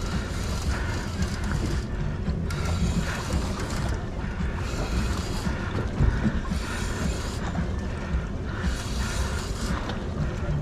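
Fishing reel being cranked in repeated bouts of about a second each while a large striped bass is reeled toward the boat, over a steady low rumble of wind and boat.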